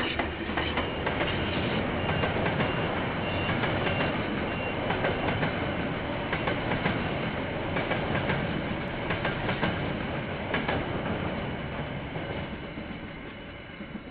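Train passing, its wagons' wheels clicking over the rail joints in a steady rolling rumble that fades over the last couple of seconds.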